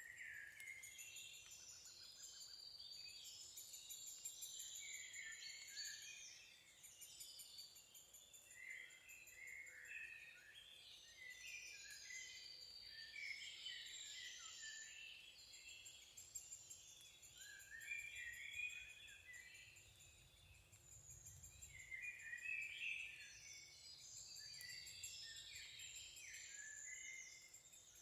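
Faint songbird chorus: several birds singing overlapping, varied phrases that come in waves with a couple of short lulls.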